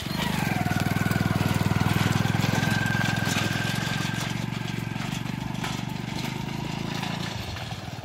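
Motorcycle engine of a bike trolley (a motorcycle rigged to pull a four-wheel farm trolley) running as it moves off. It gets louder at the start, peaks about two seconds in, then slowly fades.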